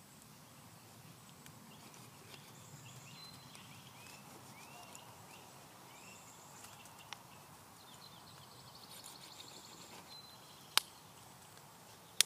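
Quiet outdoor background with faint bird chirps, a short run of repeated chirps and later a quick trill. A single sharp click stands out near the end.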